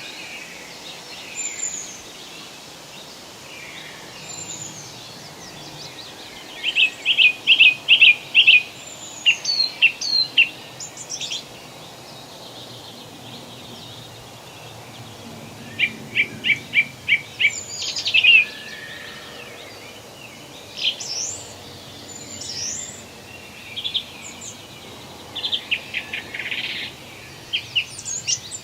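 Forest birds singing over a steady hiss of background noise. Twice, about seven seconds in and again about sixteen seconds in, one bird gives a quick run of short repeated notes, about six a second; thin high calls and chirps come in between.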